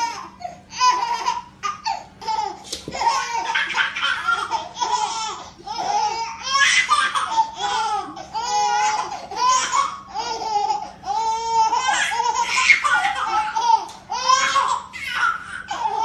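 A baby laughing hard in rapid, repeated bursts of high-pitched giggles and squeals.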